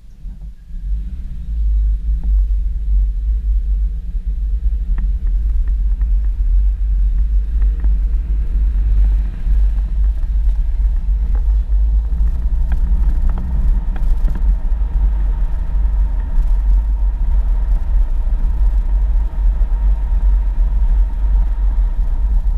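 A 4x4 vehicle driving along a dirt road: a steady, heavy low rumble from the running gear and road, with scattered light knocks.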